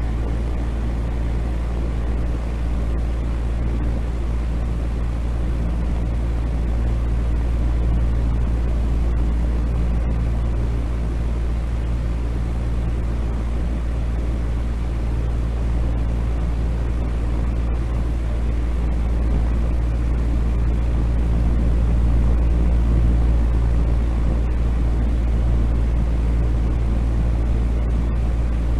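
Steady noise track for sleep: an even, unbroken deep noise, much stronger in the bass than in the softer hiss above it, with no changes.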